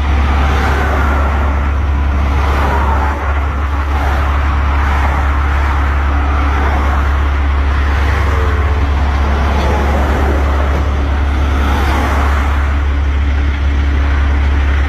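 Heavy diesel truck engine running steadily with a loud, constant low drone, with fainter shifting whines above it, as the tow truck pulls the semi out of the ditch.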